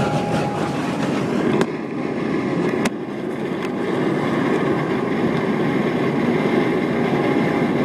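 Steady road and engine noise heard inside a truck cab while driving, with two sharp clicks in the first few seconds.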